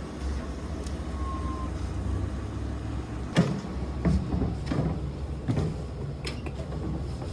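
A handful of sharp knocks and clicks of doors or cabinets being opened and shut, starting about halfway through. Under them is the low steady rumble of the motorhome's engine idling.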